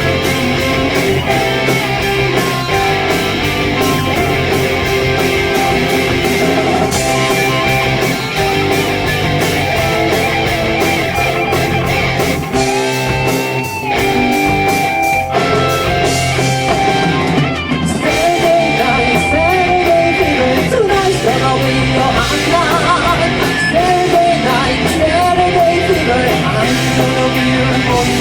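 Live rock band playing, with electric guitars, bass, drums and keyboard, and vocals in places. About halfway through there are held, bending lead notes.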